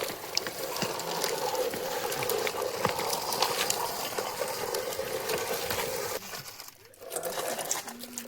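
Small gravel chips rattling and pouring, a dense run of small clicks and hiss over a steady hum, that falls away about six seconds in.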